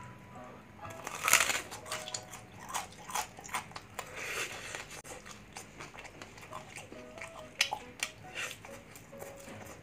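Crunchy bites and chewing of crispy bagnet, deep-fried pork belly with a crackling skin: a run of sharp crunches, the loudest about a second in and another strong one near the end.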